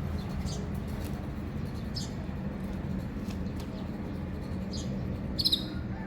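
Small caged finches, a canary and a white-headed munia, giving short high chirps every second or so, with the loudest cluster near the end, over a steady low hum.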